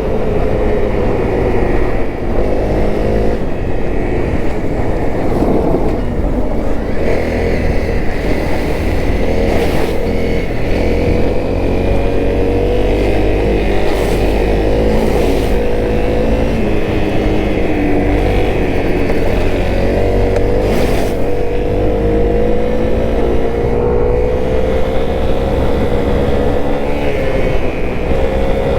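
Honda CRF250L's single-cylinder four-stroke engine running under way, its pitch rising and falling repeatedly as the rider works the throttle through the gears.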